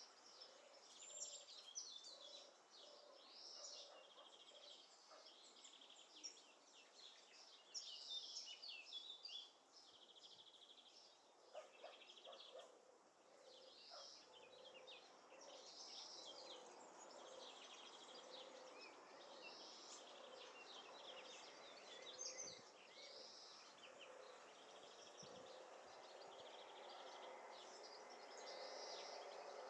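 Birds singing faintly in trees: many high chirps and trills, with a lower note repeated steadily over and over.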